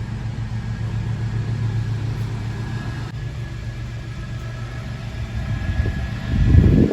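A motor running with a steady low hum, getting louder near the end and then stopping abruptly.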